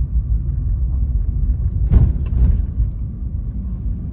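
Steady low road rumble heard inside a moving car, with one short sharp knock about two seconds in.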